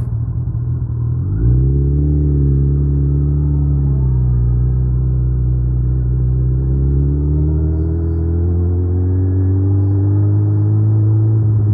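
Suzuki Hayabusa's inline-four engine under way. About a second in it rises sharply in pitch as the throttle opens, holds, eases off a little, then climbs steadily again through the second half.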